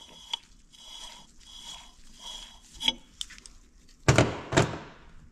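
Metal parts of a Detroit Diesel governor being handled: light clinks and taps with a faint ringing. Near the end come two louder scraping noises close together.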